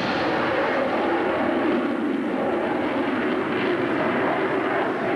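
Airplane engine noise, loud and steady, from an aircraft in flight.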